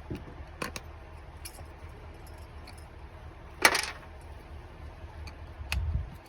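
Small metal parts and tools clicking and clinking while a motorcycle carburetor is handled. There is one louder clatter about three and a half seconds in and a low thud near the end.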